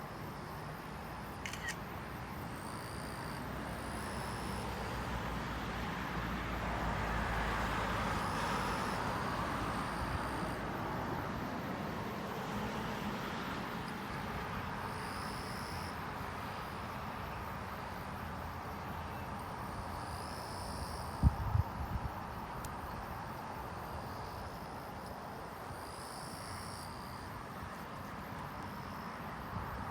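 Wind blowing steadily, swelling into a stronger gust a few seconds in and easing off, with low rumble and a couple of sharp knocks of wind buffeting the microphone a little past the middle. Short high chirps recur every few seconds.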